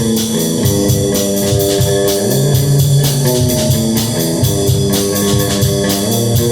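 Electric guitar and drum kit playing an instrumental together: held, organ-like chords that change every second or two over a steady cymbal beat of about four strokes a second.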